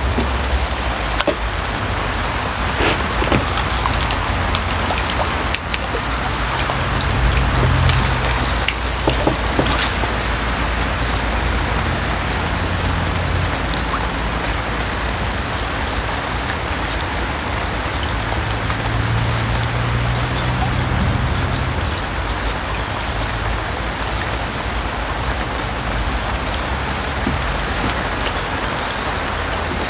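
Steady rain falling on pond water, an even hiss with scattered drop taps, over a steady low rumble.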